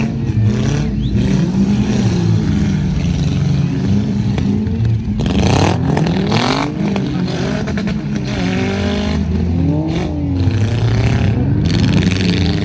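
Several demolition-derby car and truck engines revving up and down at once, their pitches rising and falling over each other. Bursts of scraping and banging from the vehicles' bodywork come about halfway through and again near the end.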